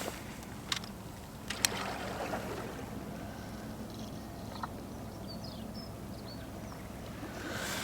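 Calm sea water lapping gently at the shore, with a few sharp clicks and, about four to five seconds in, some faint high bird calls.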